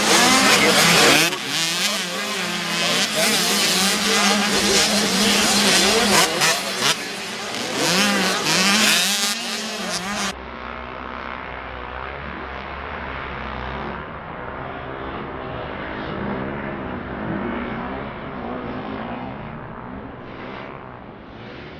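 Motocross bike engines revving up and down as riders race, the pitch rising and falling with the throttle. About halfway through, the sound cuts to a quieter, more muffled recording of the bikes.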